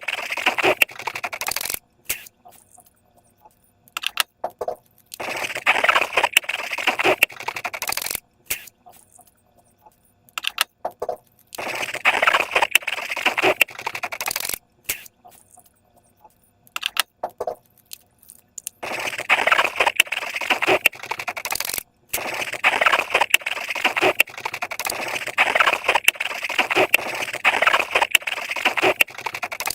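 Slime and balloons being handled: crackling, clicking, scraping noise that comes in bursts of two to three seconds, with quiet pauses between them.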